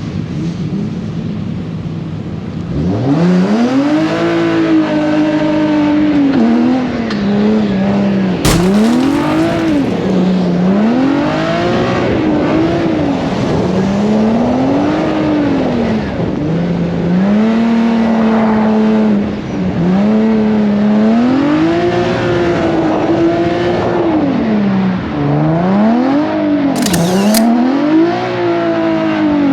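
Drift car engine revving hard and falling back over and over, its pitch climbing and dropping every couple of seconds as it is driven through a drift. The engine comes in loud a couple of seconds in, and two short sharp noises stand out, one about a third of the way through and one near the end.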